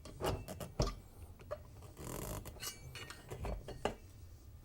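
A flathead screwdriver levering a Teflon end cap off a vacuum reaction chamber, making a string of light, irregular clicks and clinks, with a brief scrape about two seconds in.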